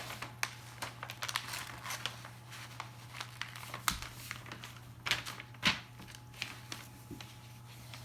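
Sheets of paper rustling and crinkling as a large, multi-sheet paper airplane is folded and creased by hand, in many short, irregular crackles, over a steady low hum.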